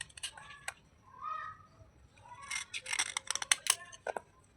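Close-miked crunching of slate being bitten and chewed: a few sharp crunches early, then a dense run of crisp crackling crunches about two and a half seconds in.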